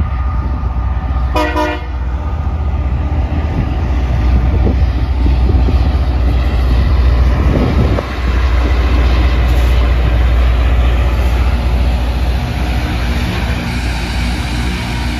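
Loram rail grinder train passing close by, with the steady deep rumble of its diesel engines and a short horn blast about a second and a half in.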